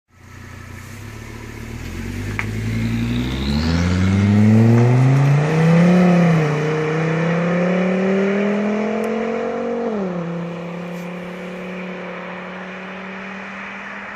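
Volvo S60 R's turbocharged five-cylinder engine pulling up through the revs. Its pitch climbs for about six seconds, dips briefly, then rises more slowly. About ten seconds in it drops to a steady drone.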